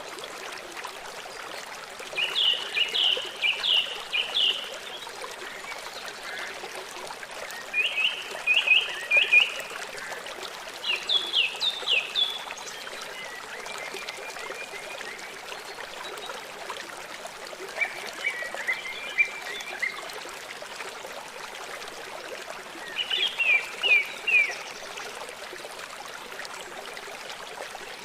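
A songbird singing about six short phrases of quick, repeated falling notes a few seconds apart, over a steady background rush of flowing water.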